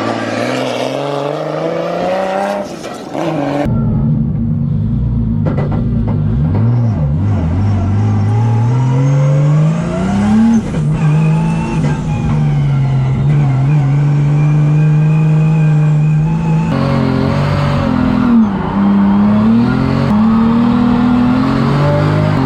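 Car engine revving hard on track, its pitch climbing and falling again and again as the driver works the throttle, with abrupt changes in the sound about four and seventeen seconds in.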